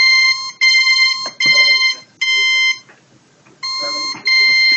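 Quantum Nova in calibrating mode giving a run of about six buzzy electronic beeps at one steady pitch, each a fraction of a second long with short uneven gaps between them.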